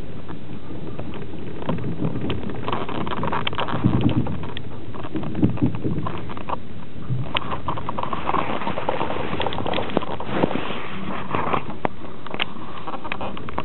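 A moving passenger train heard from inside an open-plan sleeper (platzkart) carriage: a steady rumble of wheels on rails, with many irregular clicks and rattles and a few heavier knocks.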